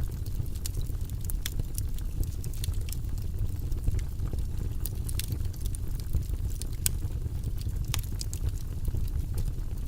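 Fire burning in a fireplace: a steady low rumble of flames with irregular sharp crackles and pops, several a second.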